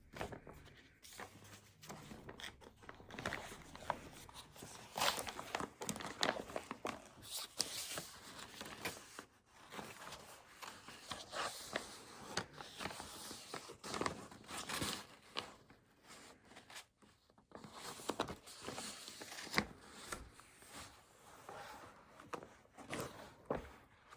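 Paper being handled at a desk: irregular rustling and crinkling of sheets, with short scrapes and soft knocks.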